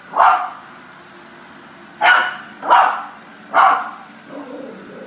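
Maltipoo puppy barking in short, sharp yaps: one bark, then three more in quick succession a couple of seconds later.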